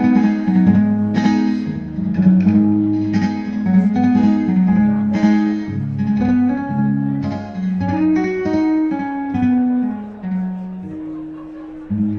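Guitar playing an instrumental passage without vocals: chords struck about once a second, then a descending run of single picked notes and a last chord, a little quieter toward the end.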